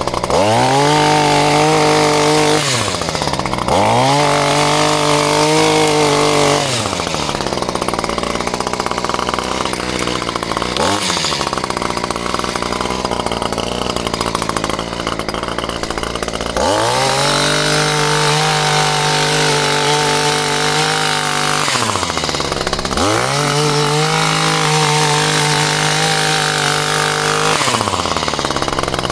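Two-stroke chainsaw revved to full throttle and let back to idle again and again while cutting branches while pruning fruit trees. For several seconds in the middle its note turns rougher and less even under the load of the cut.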